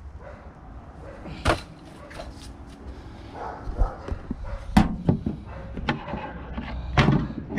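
Sheet-metal parts of a small air-conditioner unit being handled during dismantling: a few sharp metal knocks and clanks, the loudest about five and seven seconds in, with scraping in between over a steady low rumble.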